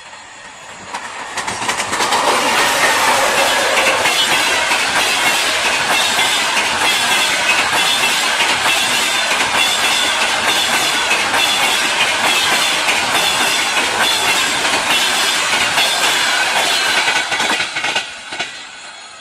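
A train passing close by, its wheels clattering rhythmically over the rail joints with some high squeal. The sound builds up over the first couple of seconds, stays loud and steady, then dies away near the end.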